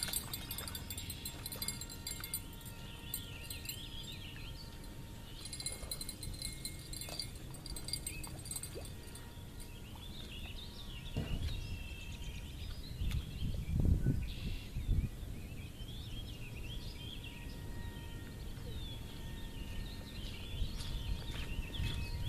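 Birds chirping and singing, over a steady low outdoor rumble. A few louder low thumps come about halfway through.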